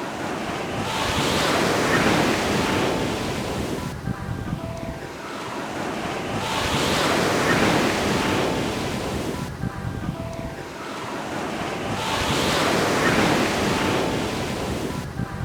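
Ocean waves breaking and washing onto a beach, three surges that each swell and fade away.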